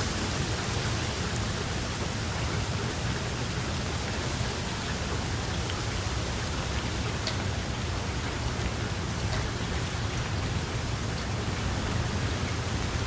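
Steady rain falling, a dense even hiss with a few louder drops ticking through it and a low rumble underneath.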